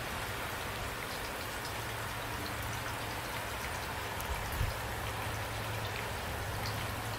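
Steady rain falling, with a low steady rumble underneath and one brief low thump about four and a half seconds in.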